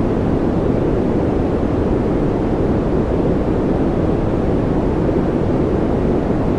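Steady, unchanging noise from a relaxation noise track: a deep, even rush weighted toward the low end, with little hiss.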